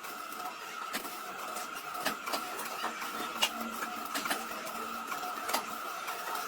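A steady machine whine with scattered sharp clicks.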